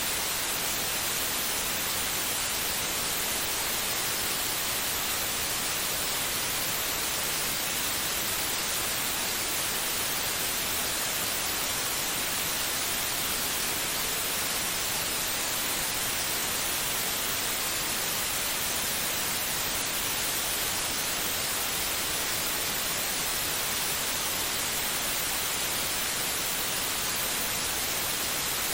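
Steady white noise for soothing a baby to sleep: an even hiss, brightest in the treble, with no rhythm, beat or change.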